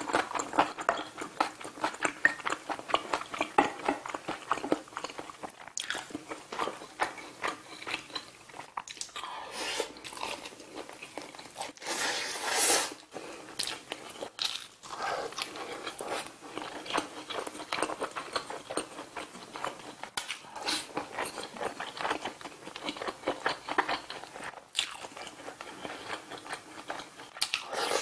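Close-miked chewing and biting of food, grilled saury wrapped in fresh leafy greens, with steady crunching and many small wet mouth clicks. A louder noisy burst, about a second long, comes about twelve seconds in.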